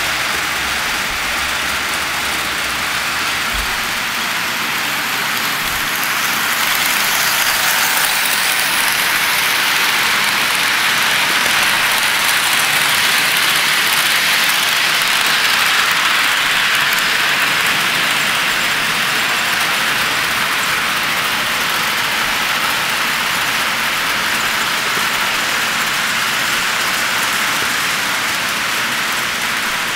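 HO scale model train running on the layout's track: a steady rolling rush of wheels and motor that swells as the train comes close, from about seven seconds in, and eases off after the middle.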